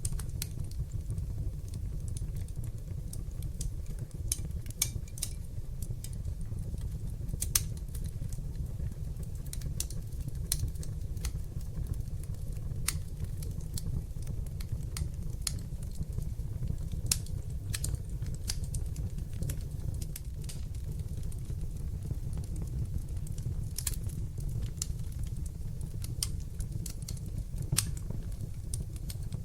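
Wood fire in a fireplace crackling: irregular sharp pops and snaps, a few of them louder, over a steady low rumble of the flames.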